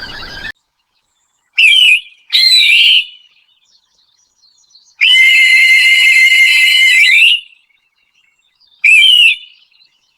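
A series of loud, high-pitched whistled notes: two short bending notes, then a long steady note held for about two seconds, then one last short note.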